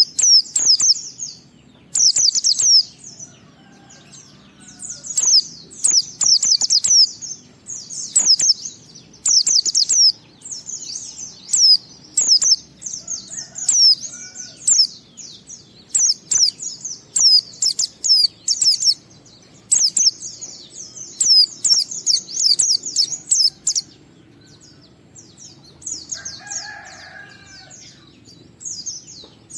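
White-eye (pleci) singing in fast, high twittering runs of a second or two, broken by short pauses. This is the long, continuous 'ngalas' song style. Near the end a brief lower-pitched call comes in.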